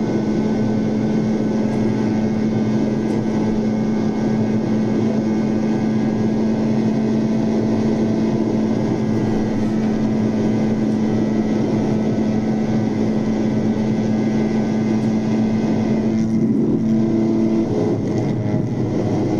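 450cc dirt bike engine held at high, steady revs at full speed, a constant drone whose pitch changes only briefly near the end.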